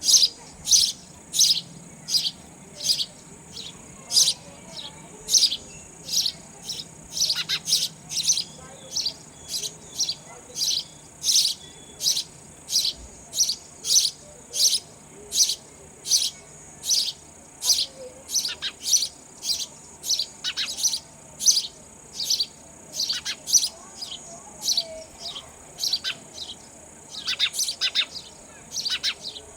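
Sparrow chirping over and over, short sharp chirps about one or two a second, with a few quick runs of several chirps together. A faint steady high-pitched hum sits underneath.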